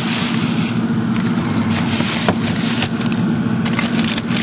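Frozen food packages rustling, crackling and scraping as they are moved about inside a freezer, over a steady low hum.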